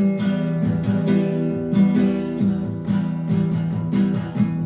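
Acoustic guitar strummed in a steady rhythm, its chords ringing, between sung lines of a song.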